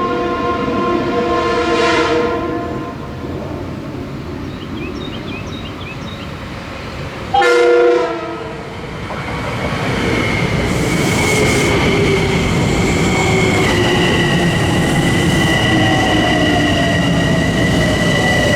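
Passenger train sounding its horn: a long chord that fades over about three seconds, then a short loud blast about seven seconds in. Then comes the rumble of the train passing, with a steady high electric whine that shifts pitch about two thirds of the way through.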